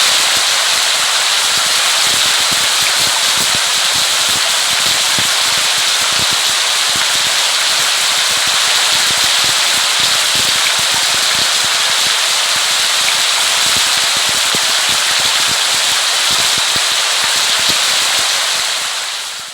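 Steady rain: a dense hiss with many close, crackling drop impacts. It fades out near the end.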